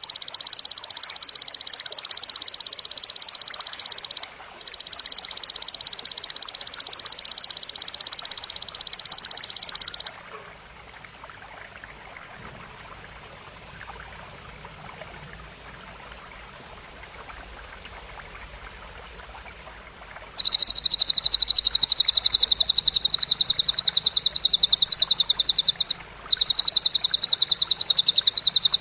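Bird-training recording of grasshopper (belalang) stridulation and cililin song: a loud, high, rapid buzzing trill runs with one brief break a few seconds in and stops about a third of the way through. After a stretch of faint hiss, a louder, higher trill of fast pulses starts about two-thirds in, breaking off briefly near the end.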